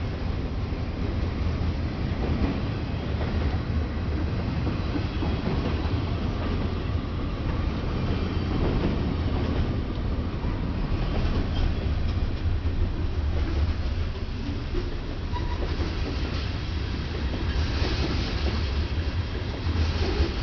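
Freight train cars rolling past steadily, a constant rumble with wheels clicking over the rail joints.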